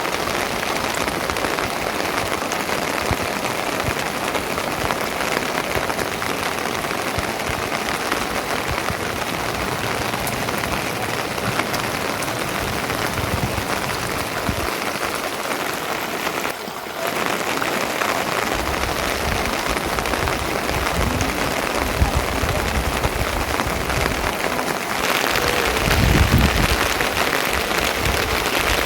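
Steady rain falling, a dense patter of drops. It dips briefly about 17 s in, and a low rumble rises under it near the end.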